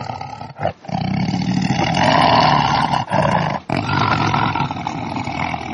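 Lion roaring: several long roars with brief breaks between them.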